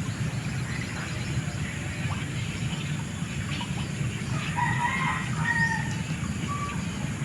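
A rooster crowing a little past the middle, its call broken into short pitched pieces, over a steady low rumble.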